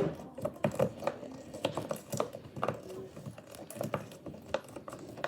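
Fidget toys being handled, giving irregular sharp clicks and taps, several a second.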